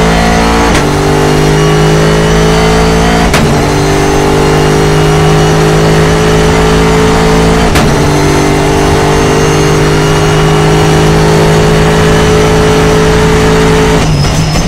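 Second-generation Bentley Continental GT3's twin-turbo V8 pulling hard under acceleration, its straight-cut gears in the sequential transaxle giving a metallic whine over the engine note. The pitch climbs through each gear, with upshifts about one, three and a half and eight seconds in.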